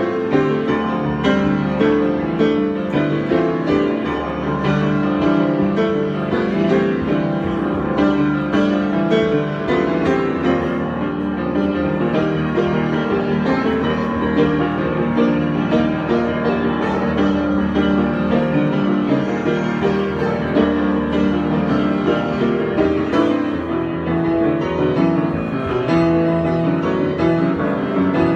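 Solo piano improvisation: continuous flowing notes and chords with no pauses.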